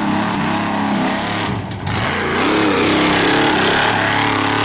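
Off-road trophy truck's race engine running hard at speed, its pitch rising and falling with the throttle. It drops briefly about a second and a half in, then climbs and holds high.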